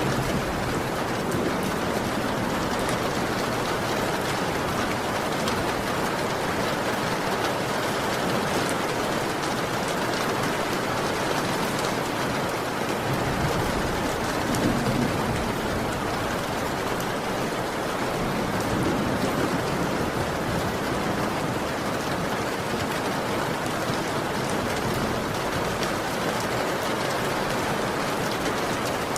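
Heavy rain falling steadily, an even hiss and patter of drops, with a low rumble coming in about halfway through.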